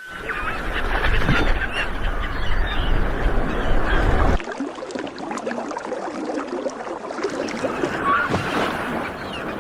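A flock of large birds calling, many honking calls overlapping in a dense chorus. A low rumble lies under the first four seconds and cuts off suddenly.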